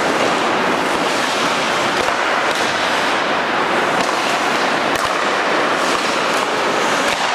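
Ice hockey play on the rink: skate blades scraping and carving the ice in a steady hiss, with a few sharp clacks of sticks and puck.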